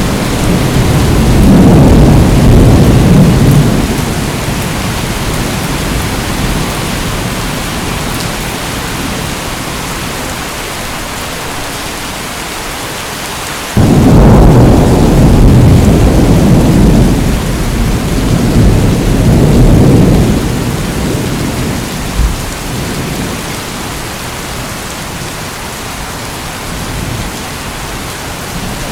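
Steady rain with rolling thunder: a low rumble in the first few seconds, then a sudden loud crack of thunder about halfway through that rolls on for several seconds before fading back to the rain.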